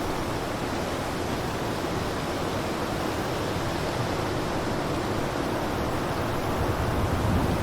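Blizzard wind blowing as a steady, even rushing noise with no single gust standing out, swelling a little near the end.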